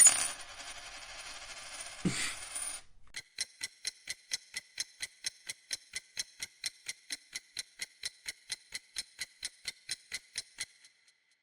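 A hiss with a high steady whine and a knock about two seconds in stops, then an electronic countdown-timer sound effect ticks evenly, about three pitched ticks a second, until just before the end.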